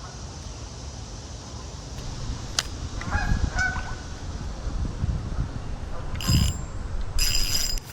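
Bird calls: a few short pitched calls about three seconds in, then two louder calls near the end, over a low rumble of wind or handling noise.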